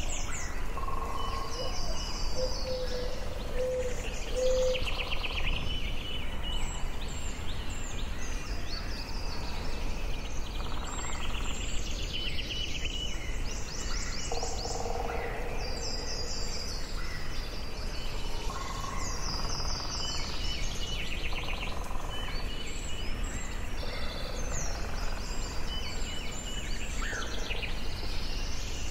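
Forest ambience: several songbirds singing in overlapping trills, warbles and short whistled notes, one after another throughout, over a steady low background hiss.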